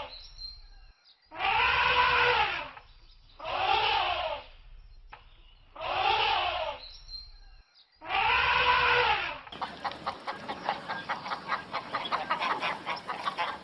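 Four loud animal calls, each about a second long, rising then falling in pitch, spaced about two seconds apart. At about ten seconds a different recording begins: a fast run of clicking or chattering pulses.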